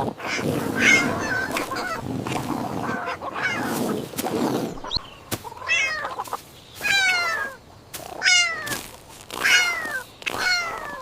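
Kittens meowing: four falling-pitched meows in the second half, after a stretch of denser, noisier animal sound.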